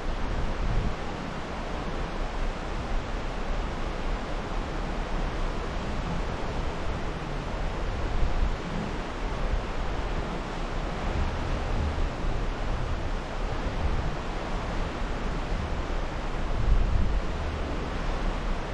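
Steady wind rush with low, uneven gusts buffeting the microphone.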